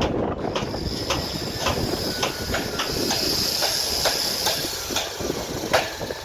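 Excavator working: a steady low engine rumble with irregular metal clanks about two a second, and a high squeal held through most of the middle. The loudest clank comes near the end.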